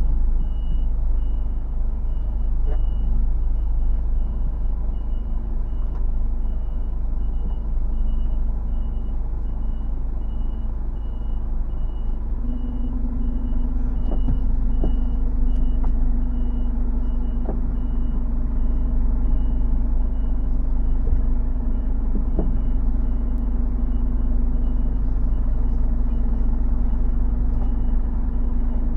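HGV's reversing alarm beeping at a steady rate over the lorry's diesel engine as the truck backs into a parking space. The engine note steps up a little about twelve seconds in.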